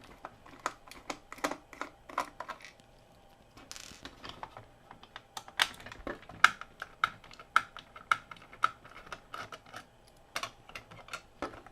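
Small screwdriver backing screws out of a plastic action figure's housing: a string of light, irregular clicks and ticks from the driver and the plastic being handled, some with a short metallic ring.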